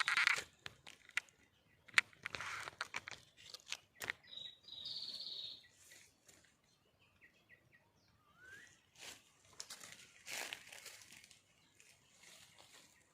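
Irregular rustling and crackling noises, with a few short, high bird calls: a buzzy call about four seconds in, a run of brief notes and a quick rising note near the middle.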